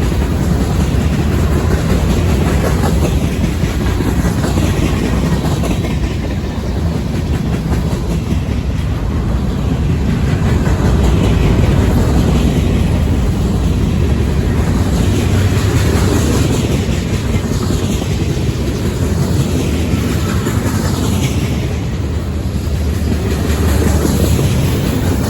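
Freight train cars rolling past on the track: a loud, steady rumble of steel wheels on rail with clickety-clack over the joints.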